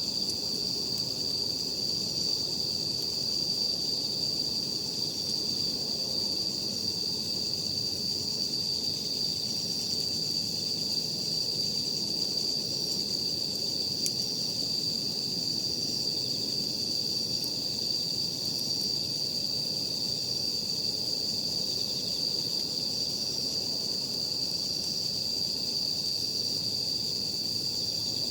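A steady, unbroken high-pitched chorus of night insects, with a low even rumble beneath it and one faint crack about halfway through.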